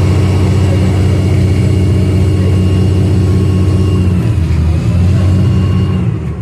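Passenger boat's diesel engine running loud and steady with a low throb. Its note shifts about four seconds in, and it falls away just before the end.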